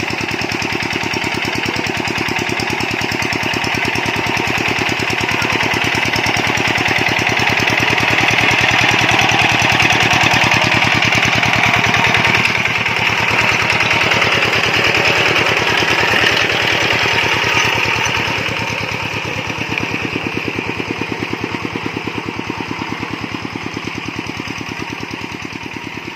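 Tractor engine chugging with a rapid, even beat as it plows a rice field, growing louder toward the middle and fading away near the end as it passes by.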